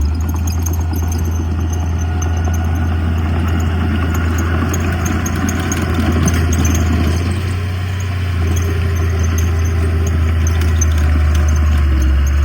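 Heavy earthmoving machine's diesel engine running steadily, with a light clatter; its note shifts a little about two-thirds of the way through.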